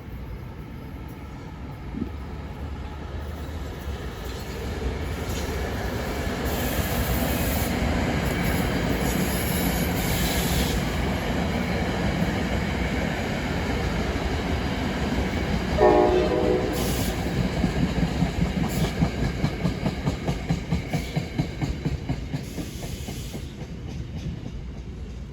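A passenger train passes, its rumble building and then fading. A short horn blast sounds about two-thirds of the way through. The wheels then click rhythmically over rail joints as the last cars go by.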